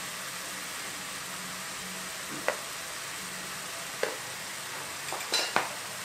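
Red amaranth leaves sizzling steadily in oil in a pan, with sharp crackles about two and a half seconds and four seconds in and a short cluster of them a little after five seconds.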